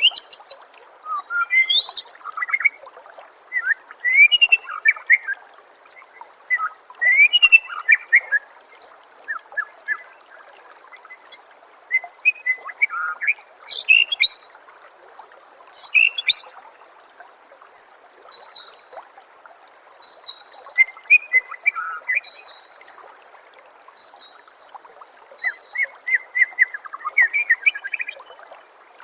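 White-rumped shama (murai batu) singing phrase after phrase of quick whistles and chirps, with short pauses between phrases, over a steady trickle of water.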